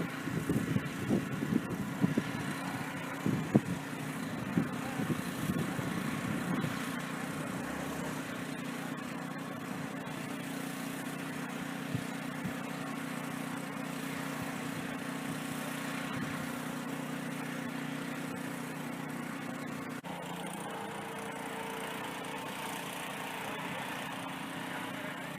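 Subaru Legacy's engine running with a steady hum. Irregular knocks and thumps sound over it for the first several seconds, and the hum changes slightly about twenty seconds in.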